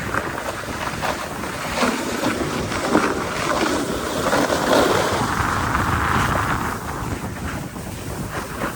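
Wind rushing over the phone's microphone while snowboarding downhill, mixed with the board's edges scraping and hissing over the snow in swelling waves.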